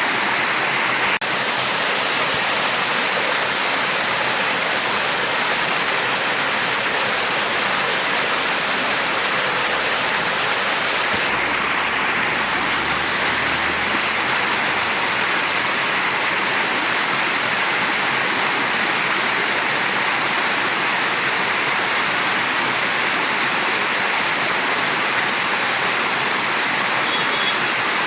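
Mountain stream rushing steadily, an even, unbroken water noise, with a brief click about a second in.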